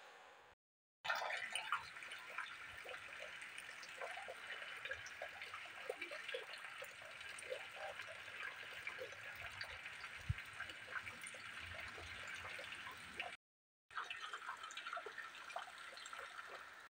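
Steady rain falling: a faint, even hiss with scattered small taps of drops. It drops out briefly near the end.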